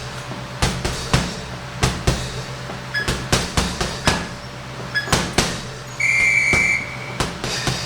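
Punches landing on a heavy punching bag: irregular thuds, often in quick pairs or runs of three. A steady high beep lasts under a second about six seconds in.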